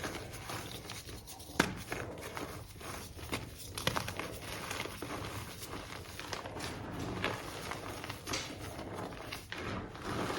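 Gym chalk block being crushed and crumbled, with continuous gritty crackling and a few sharp snaps, the loudest about one and a half seconds in.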